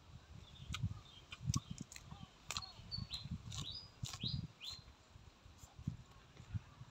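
Close-up chewing and lip-smacking while eating crunchy lettuce-wrapped food, with wet mouth clicks at irregular intervals. Birds chirp in the background, with a handful of short falling chirps in the middle.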